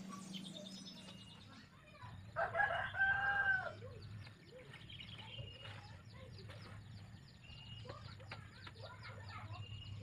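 A rooster crowing once, about two seconds in, with softer chicken clucks around it.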